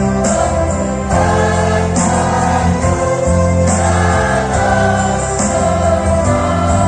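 Student choir singing with musical accompaniment: sustained choral notes over a steady low bass line.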